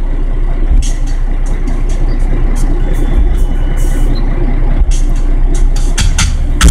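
Truck engine idling, a steady low rumble heard from inside the cab, with a few short clicks. About six seconds in, a deep bass from the 12-inch Kicker CVX subwoofer comes in as music starts.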